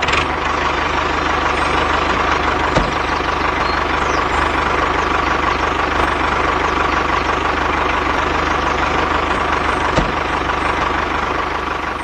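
A machine running steadily with an even low hum, like an idling engine, starting abruptly and fading out near the end.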